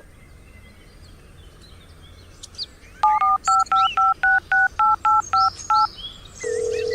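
Touch-tone phone keypad beeps: a quick run of about ten dialing tones as a number is punched in, followed near the end by a steady single tone like a call tone.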